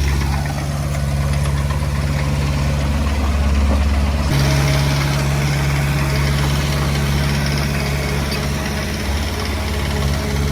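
Heavy diesel engine running steadily with a low drone that changes abruptly about four seconds in.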